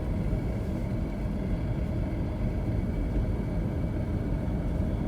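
Steady low rumble of a third-generation Toyota 4Runner driving: engine and road noise.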